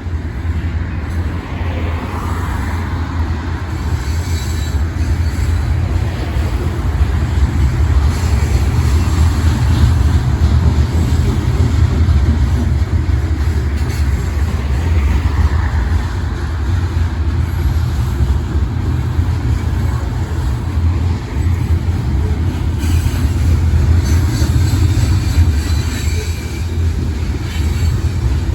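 Freight train rolling past, a steady low rumble of its wheels on the rails.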